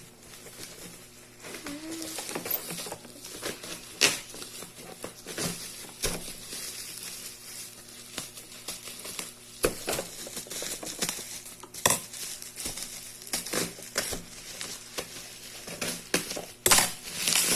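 Plastic toy kitchen-set pieces and their packaging being handled: scattered clicks, knocks and light rattles of hard plastic, with some crinkling.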